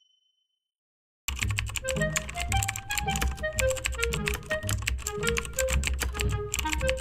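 Rapid computer-keyboard typing, a dense run of clicks, over background music with a simple stepping melody and a bass line, starting just over a second in after the last of a bell's ring dies away.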